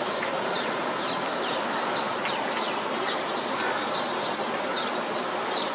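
Small birds chirping, a steady series of short high chirps about two or three a second, over a constant hiss of background noise.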